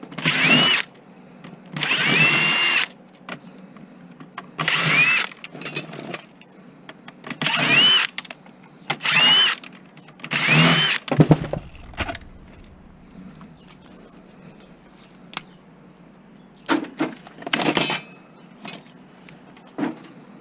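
Power drill spinning in short bursts, about six in quick succession, each with a whine that rises and levels off as it backs screws out of a TV's casing. A few shorter bursts and clicks follow near the end.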